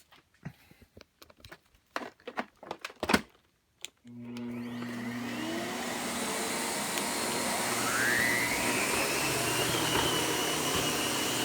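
A few clicks and knocks, then about four seconds in a Miele upright vacuum cleaner switches on: its motor whine climbs in pitch for a few seconds as it spins up, then runs steadily.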